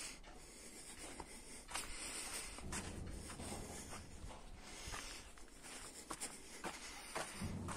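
Faint rustling with scattered light clicks and taps.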